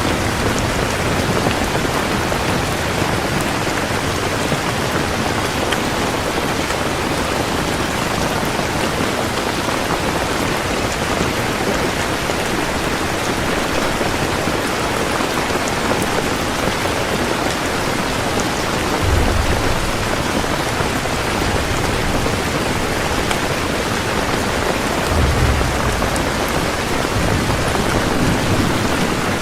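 Heavy rain pouring steadily, an even dense hiss, with brief low rumbles of distant thunder about two-thirds of the way through and again near the end.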